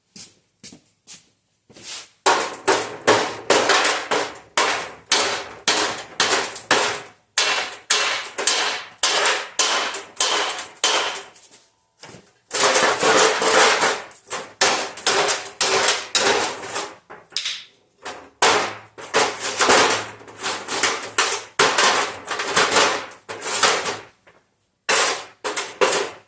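Hammer blows on a cracked cast iron exhaust manifold, knocking the broken section apart: sharp, even strikes about two to three a second, in three long runs with short pauses between them.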